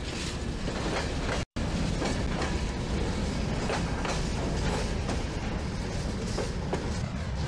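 Loaded freight train of open wagons rolling past on the track: a steady rumble with the wheels clacking over the rails. The sound cuts out for a split second about a second and a half in.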